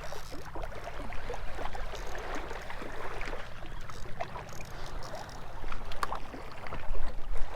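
Water lapping and sloshing against the shore in choppy, wind-driven waves, with wind buffeting the microphone as a low rumble and small irregular splashes and clicks throughout.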